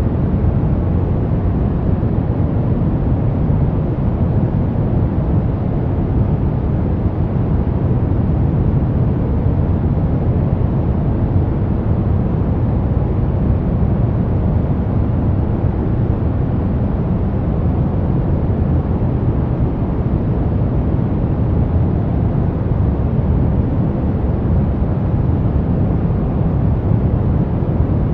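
Brown noise: a steady, deep rumbling hiss with its weight in the low end and little treble, unchanging throughout.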